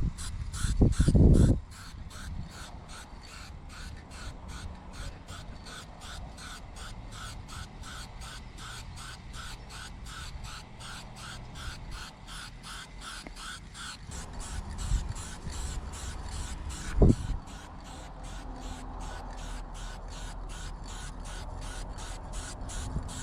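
Steady rhythmic chirping, about three pulses a second, with a short loud low rumble about a second in and a brief rising call about two-thirds of the way through.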